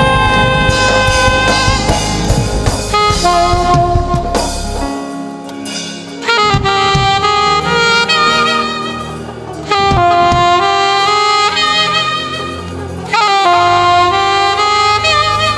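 Saxophone playing long held melodic notes in phrases over a live gospel band. The bass and drums drop back about five seconds in, and the sax comes back in louder three times after that.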